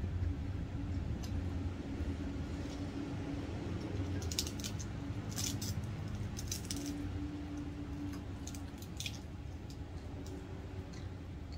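Close eating sounds of someone eating with her hand: wet chewing and a few crisp crunches as she bites raw cabbage leaves with rice, fried anchovies and sambal. A steady low hum runs underneath.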